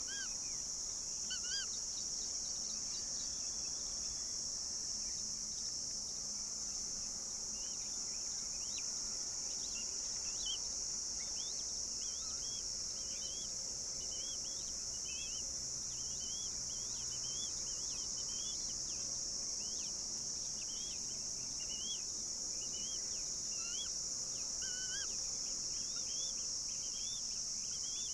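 A steady, high-pitched insect drone, with many short, rising bird chirps repeating throughout.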